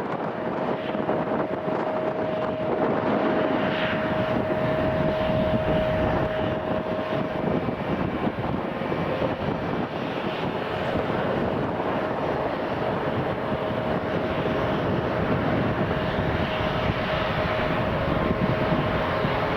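Boeing 777-200ER twin-jet on its landing run: steady jet engine rumble with a steady whine over it.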